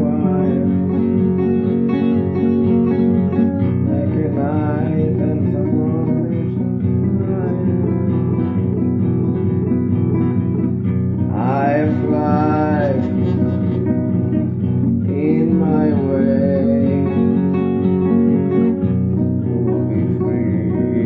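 Acoustic guitar music, plucked and strummed, with a wavering melody line that bends in pitch coming in a few times.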